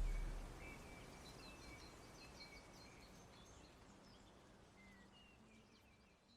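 Faint, scattered chirps and short calls of small birds over a soft hiss, while the last low notes of music die away in the first half second. It all fades out gradually toward the end.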